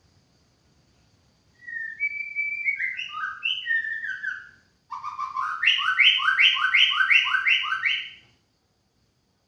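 White-rumped shama singing: a run of varied whistled notes gliding up and down, then a fast series of about eight loud repeated notes, each a low and a high note together, that stops short.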